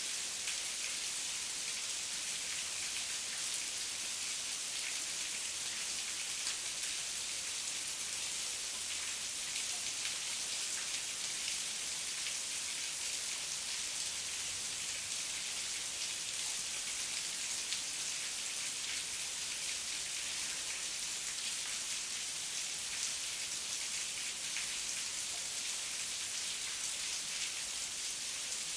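Heavy rain falling steadily, a dense hiss of drops with many small patters on surfaces.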